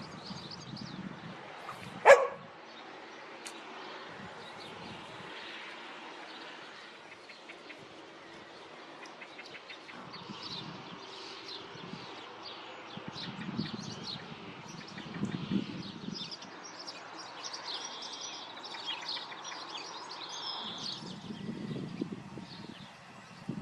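Small birds chirping and singing in short high phrases, busiest in the second half. One loud, sharp sound about two seconds in stands out above everything else.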